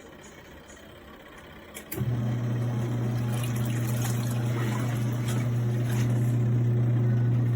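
Twin-tub portable washing machine's motor humming steadily. It starts about two seconds in and cuts off just at the end, a stop-start run with pauses like a wash agitation cycle.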